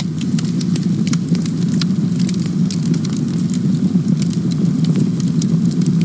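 Campfire burning: a steady low rumble of flames with frequent small, irregular crackles and pops from the burning wood.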